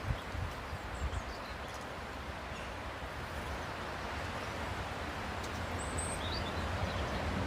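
Outdoor ambience of a steady rushing noise with a fluctuating low rumble, and a few short, high bird chirps, mostly near the end.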